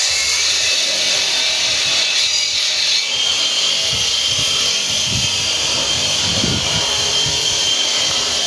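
Power saw cutting stone: a steady, high-pitched whine over a continuous grinding hiss.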